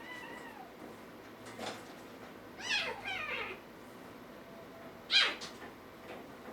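Kittens mewing: a handful of short, high calls, with a quick run of them around the middle and the loudest one a little after five seconds.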